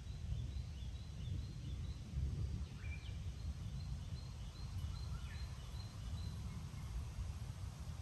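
Birds calling: one repeats a short high note about twice a second for the first six seconds, with a few lower down-slurred calls around three and five seconds in. Under them runs a steady, uneven low rumble.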